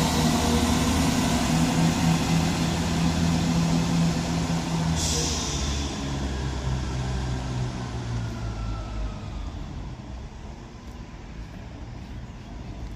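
Double-headed Class 170 Turbostar diesel multiple units pulling away, their underfloor diesel engines running under power and fading steadily as the train leaves. A short hiss of air about five seconds in.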